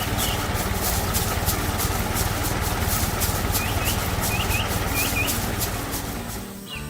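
A motor running steadily with a rhythmic clicking over it, and short bird chirps now and then. It fades out near the end as music comes in.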